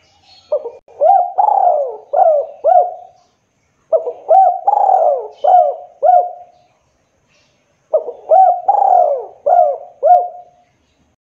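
Spotted dove (tekukur) cooing: three repeated phrases of about five rising-and-falling coo notes each, a few seconds apart.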